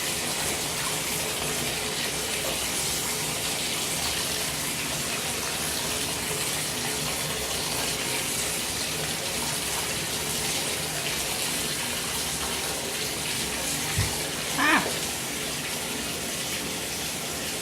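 Water running steadily into a bathtub during a dog's bath. About 14 s in there is a single thump, followed by a brief voice.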